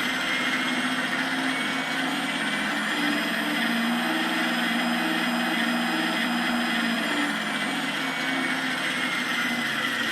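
Simulated aircraft engine sound from the model's onboard sound-module speaker, running steadily as a buzzy drone that grows a little stronger and shifts in tone through the middle.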